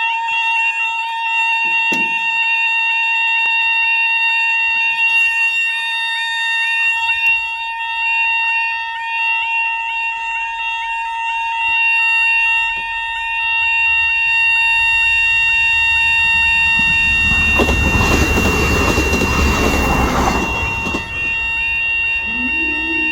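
Railway level crossing alarm with a fault: its repeating warble goes over to a flat, steady tone about halfway through. A train passes with a loud rush a few seconds after the change, and a new lower tone starts near the end.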